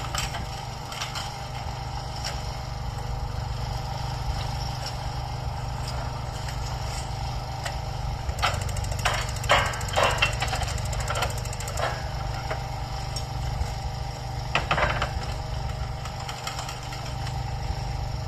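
Railway track-maintenance machinery running with a steady engine drone, broken by a cluster of sharp knocks about halfway through and another brief burst of knocks a few seconds later.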